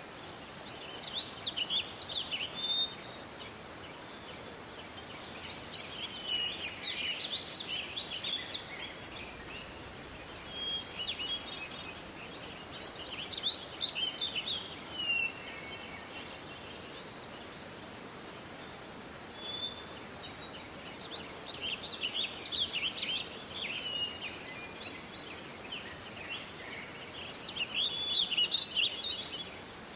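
Songbirds singing: bursts of rapid twittering, each two to three seconds long, recurring every few seconds, with short single whistled notes in between, over a faint steady background hiss.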